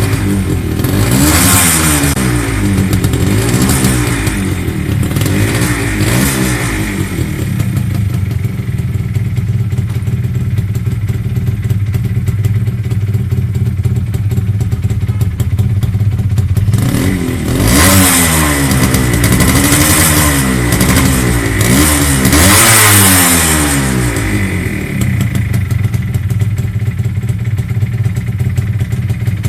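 TVS Shogun's two-stroke single-cylinder engine revved in a few quick throttle blips, settling to a steady idle, then blipped about three more times before idling again.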